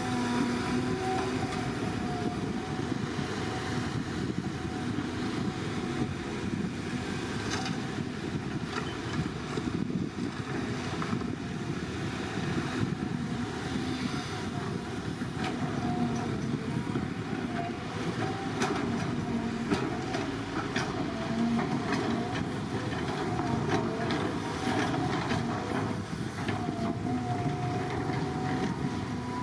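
Heavy diesel earthmoving machinery running steadily, with frequent short metallic clanks through it.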